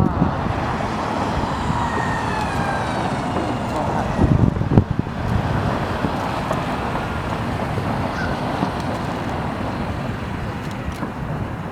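Fireworks display: a continuous rumble of bursts, loudest about four to five seconds in.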